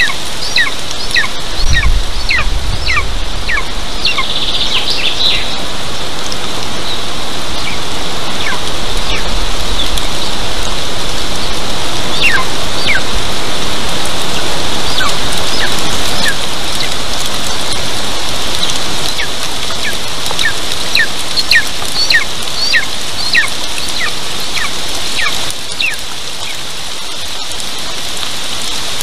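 Steady rain falling, with runs of short, high, falling bird chirps through most of it and a brief low rumble about two seconds in.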